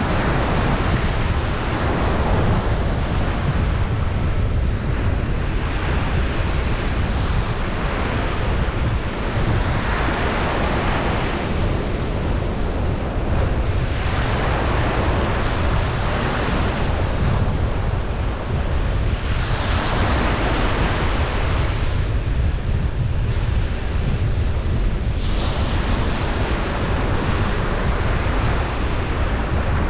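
Ocean surf breaking on a beach: a continuous wash of waves that swells and fades every few seconds over a steady low rumble.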